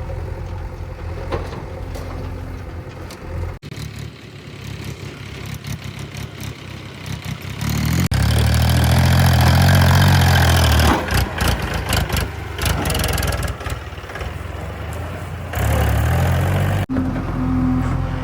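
Diesel engines of the backhoe loader and tractors running, with the engine note rising loudly as they rev under load twice. The sound changes abruptly at several edit cuts.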